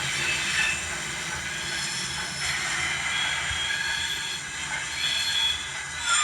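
Steam locomotive running sounds for an LMS Coronation Class Pacific, played by an ESU LokSound v5 sound decoder through the model's own small speaker as the loco runs forward: steady steam exhaust and hiss.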